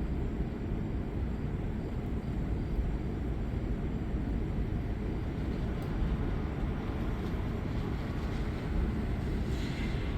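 Thunderstorm: a steady low rumble, with a brief rise of hiss near the end.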